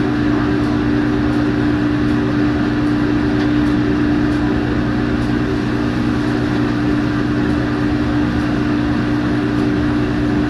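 Loud, steady machine drone of commercial kitchen equipment, a constant hum with no change in pitch or level.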